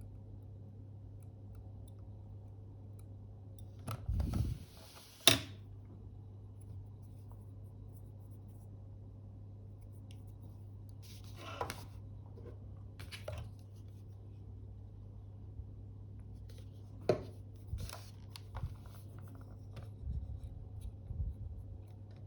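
Faint, scattered scratching and rubbing from close hand work cleaning sticky glue off a camera's flex cable, with a few sharp clicks, over a steady low hum.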